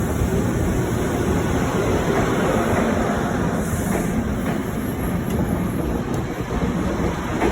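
A train running through the station, a steady loud noise of wheels and cars on the rails.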